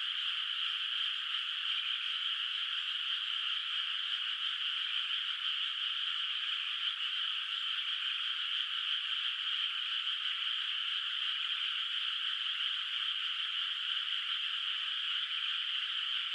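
Dense, continuous chorus of many frogs calling from a flooded rice paddy, merging into a steady high-pitched trill with no breaks.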